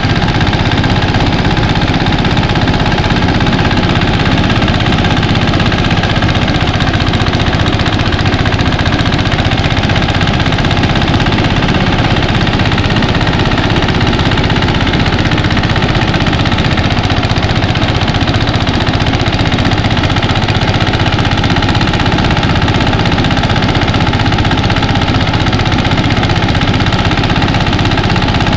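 Mini rice thresher running steadily on its small engine: a loud, even mechanical drone that holds without change.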